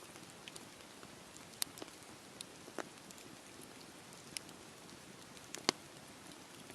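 Campfire burning with a steady low hiss and scattered sharp crackles and pops, the loudest pop near the end.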